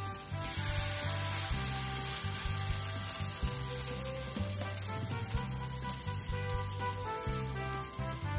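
Zucchini kabab batter sizzling as it shallow-fries in a little oil in a frying pan, with a fresh spoonful of batter added to the pan. Background music plays over the sizzle.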